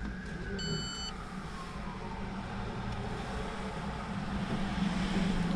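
A siren wailing, its pitch falling away over the first couple of seconds, over a steady low vehicle engine rumble. A short electronic beep sounds about half a second in.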